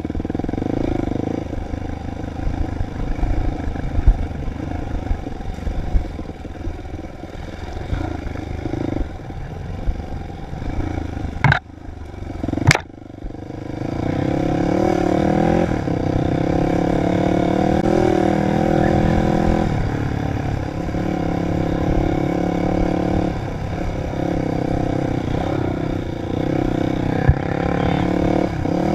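Dirt bike engine running through changing revs, rising and falling, with two sharp knocks about halfway through.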